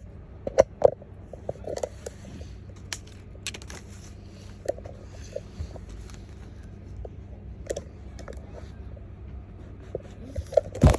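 Scattered light taps and clicks of small objects being handled, a few of them sharp, over a steady low hum.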